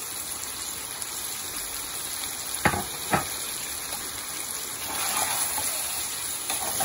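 Boneless chicken frying in masala in a pot, a steady sizzle, with two sharp knocks about half a second apart near the middle.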